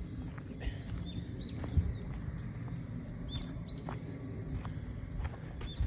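Forest ambience: small birds giving short chirps again and again over a steady high-pitched insect drone, with a low rumble and a single thump about two seconds in.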